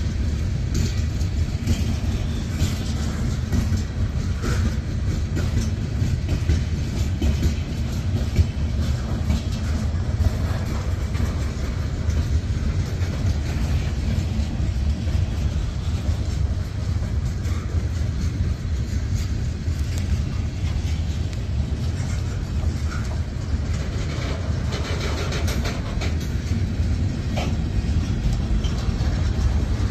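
Freight train's tank cars and covered hopper cars rolling past: a steady low rumble of steel wheels on rail, with frequent clicks and clanks.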